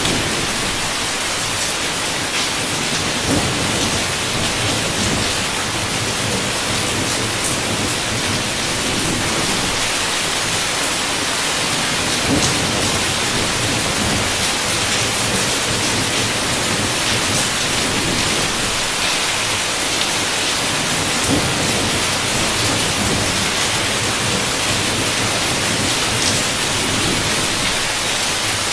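Heavy rain beating steadily on a window, thick hiss with scattered sharp drop hits, over a low rumble of thunder.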